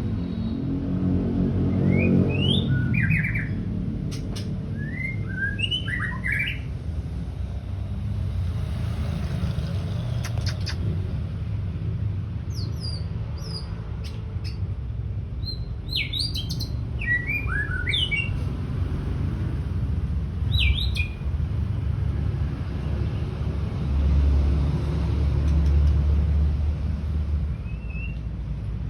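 White-rumped shama giving short bursts of chirps and whistled notes in scattered clusters, over a steady low rumble. A louder low hum comes in for a few seconds near the end.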